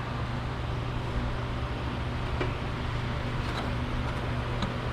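A steady low mechanical hum with an even noise bed, like a running fan or similar machine, with a few faint light clicks scattered through it.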